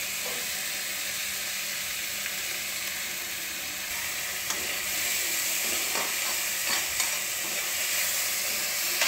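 Onion-tomato masala frying in oil in a kadhai with a steady sizzle. A spatula stirs it, scraping and tapping against the pan a few times in the second half.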